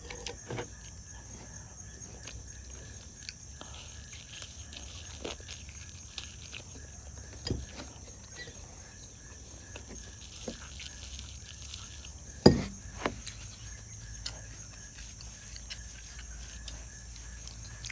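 Eating sounds: scattered small clicks of a utensil against a dish and mouth noises while chewing, with one louder knock about twelve seconds in. A steady low hum and a faint high whine run underneath.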